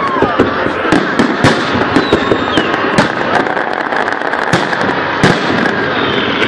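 Fireworks salute: a dense crackle of small pops with several louder sharp cracks scattered through, about one every second.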